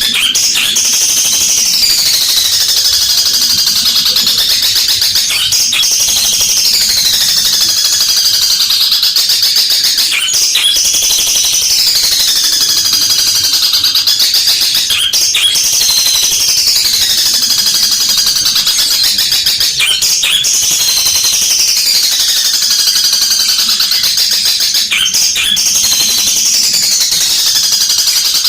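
Long-tailed shrike singing loudly and without a break: a harsh, rapid, high chatter with a falling sweep about every two and a half seconds, in the fighting-house-sparrow mimicry that cendet keepers call 'gereja tarung'. Sharp clicks come about every five seconds.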